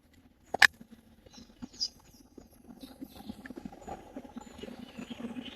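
A sharp click about half a second in, then light, irregular rustling and scratching, like gear being handled.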